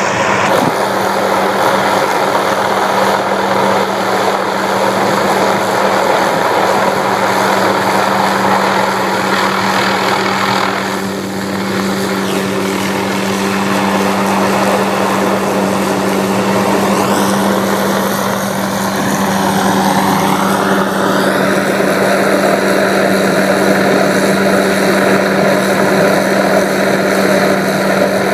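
Helicopter running close by with a steady, loud rotor and engine drone. About two-thirds through, its tone swooshes and shifts as it changes position.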